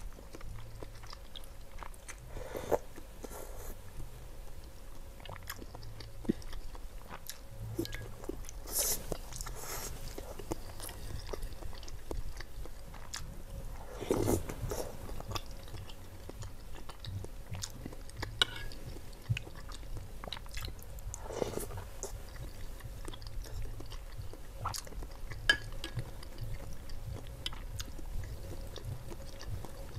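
Close-miked chewing and wet mouth sounds of someone eating lontong sayur (soft rice cake, egg and vegetables in coconut curry broth), with a louder spoonful taken in about fourteen seconds in.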